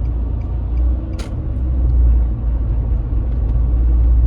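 Car driving slowly in traffic: a steady low engine and road rumble, with a single sharp click about a second in.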